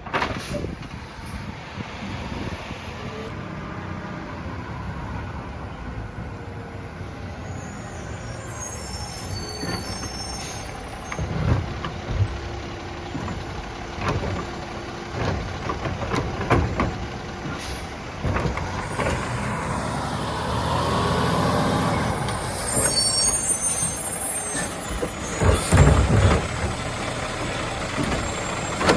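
Peterbilt 520 garbage truck with a Labrie Automizer automated side loader running, its diesel engine rising in pitch and level as the arm works carts. Several sharp bangs of carts and the arm, the loudest near the end, and short air-brake squeals and hisses twice.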